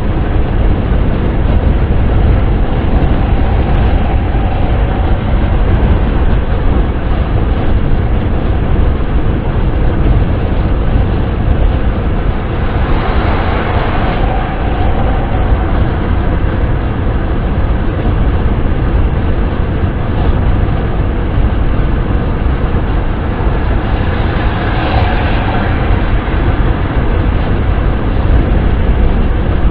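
Steady wind and road noise of a car driving, heavy in the low pitches, swelling briefly about halfway through and again near the end.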